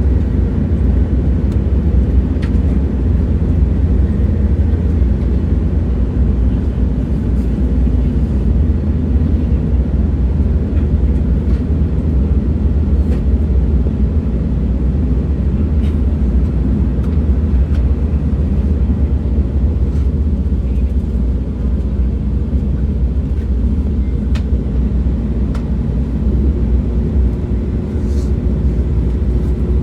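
A moving train's steady low rumble, with scattered faint clicks and ticks. A faint steady hum comes in near the end.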